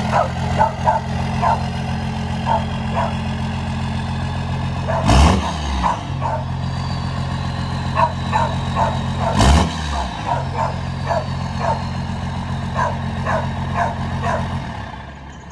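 A 5.9-litre 12-valve Cummins inline-six diesel idling, revved briefly twice, about five and nine seconds in. The engine sound drops away near the end.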